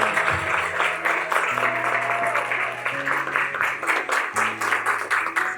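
Audience applauding, a dense patter of many hands, over background music with held low notes that change every second or so.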